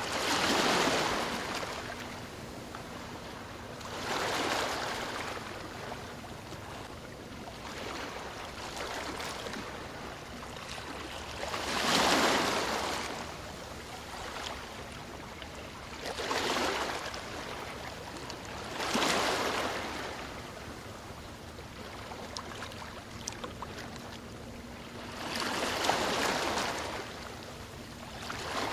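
Ocean surf: waves breaking and washing up the shore, about six rushes a few seconds apart that swell and fade over a steady background wash, the loudest near the middle.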